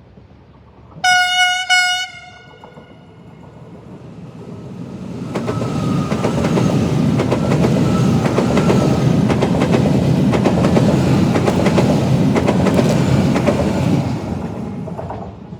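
A train horn sounds two short blasts. Then a train approaches and passes through the station, its wheels clicking over the rail joints, and the sound fades away near the end.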